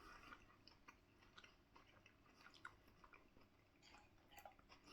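Faint chewing and mouth sounds: soft, scattered little clicks and smacks as a mouthful of curry is eaten.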